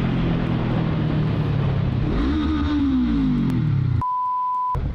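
A motor vehicle engine running steadily, with a smooth rise and fall in pitch about two seconds in. Near the end, a single steady censor bleep lasting most of a second replaces all other sound, blanking out a word.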